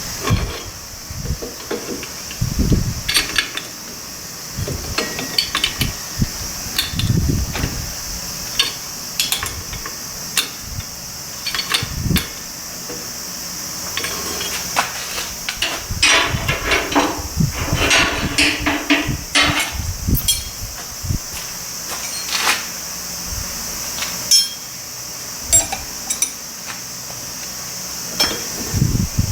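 Hand tools knocking and clinking against metal car parts in an irregular series of sharp strikes, busiest about two-thirds of the way through.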